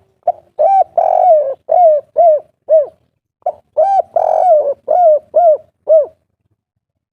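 Spotted dove (tekukur/derkuku) of the 'kuk 3' song type cooing two full song phrases, each a string of about six short, arched coos with a longer, fuller coo in the middle, the second phrase following the first after a half-second pause.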